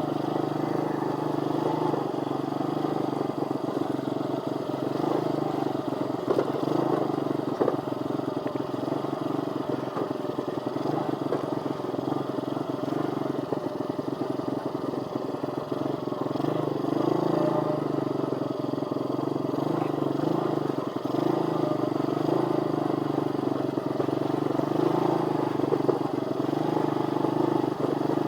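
Pit bike engine running under way, with steady engine pitch that rises and falls gently as the throttle changes.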